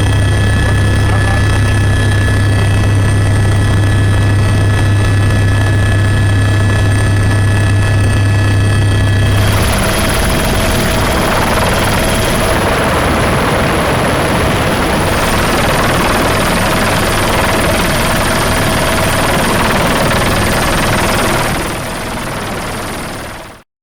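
Mil Mi-17 twin-turbine helicopter running: a steady low rotor drone with a high, even turbine whine. About ten seconds in, the sound changes abruptly to a dense rushing noise with less whine. It drops in level near the end, then cuts off suddenly.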